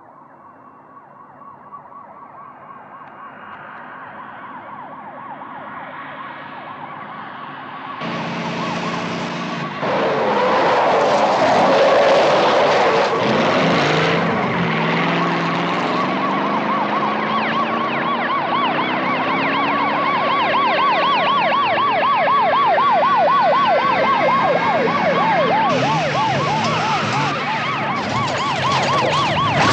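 Police car sirens warbling rapidly up and down, growing louder over the first ten seconds, with car engines revving beneath them; later several sirens overlap.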